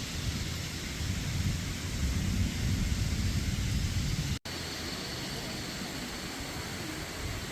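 Heavy rain pouring steadily, with a heavier low rumble under it for the first four seconds. About four seconds in the sound cuts off abruptly and goes on as steady rain without the rumble.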